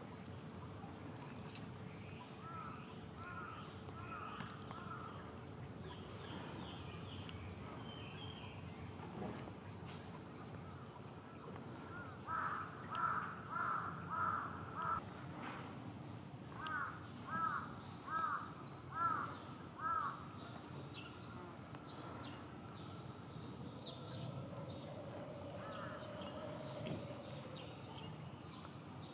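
Outdoor birds calling. The loudest sounds are two runs of about five evenly spaced calls, about two per second, in the middle. Short, high, rapid chirping trills repeat every few seconds throughout, over a steady background hum.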